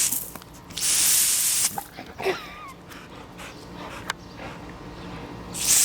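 Garden hose spraying in short hissing bursts: about a second in and again near the end. Between the bursts a puppy gives a brief high whine, about two seconds in.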